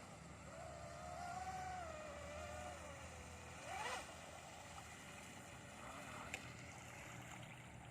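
Brushless electric motors (3670 size, 2700 kV, on a 4S lipo) of a twin-motor RC speedboat whining at a distance, the pitch wavering as the throttle changes, with a sharp rise and swell in pitch just before four seconds in, then fainter. A single short click comes near the end.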